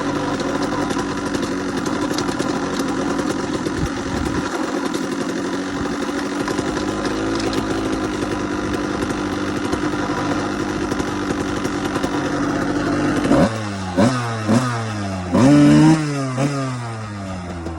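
KTM 85 two-stroke dirt bike engine running steadily at idle, then blipped several times near the end, each rev dropping back to idle.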